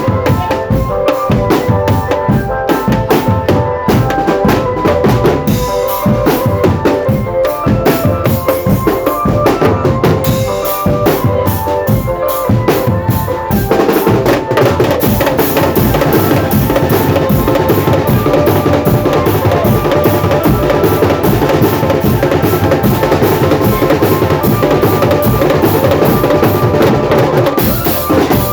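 Marching drum band playing: bass drums and snare drums beat a fast, busy rhythm under a steady melody line. About halfway through, the playing thickens into a denser, more continuous sound.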